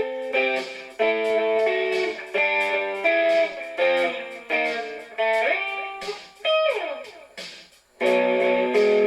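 Guitar playing a run of struck chords, then a note sliding up and another sliding down, fading almost to nothing before a full chord rings out about eight seconds in.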